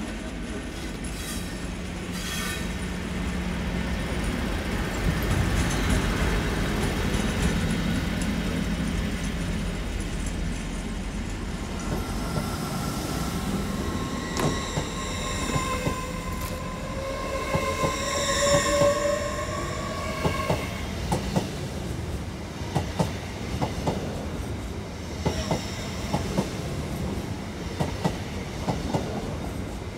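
LNER Azuma passenger train moving along the platform: a steady low rumble, then wheel squeal as high whining tones from about 12 to 21 seconds in, followed by a run of rhythmic clicks as the wheels pass over rail joints.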